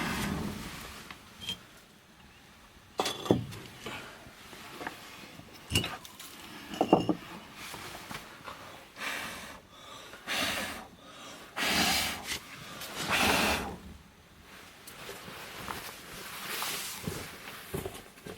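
Firewood burning in the firebox of a wood-fired bath: scattered sharp crackles and pops, with a few louder rushing swells of noise near the middle.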